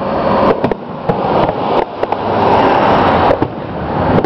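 Aerial fireworks shells bursting: a run of sharp bangs and cracks, several a second, over a steady rushing noise.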